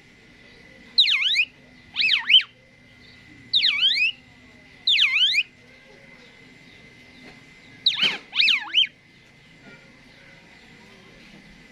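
Asian pied starling (jalak suren) calling: a series of loud whistles, each a quick swoop down and back up in pitch, given singly or in pairs about a second apart, with a run of three near the end of the calling and then a pause of a few seconds.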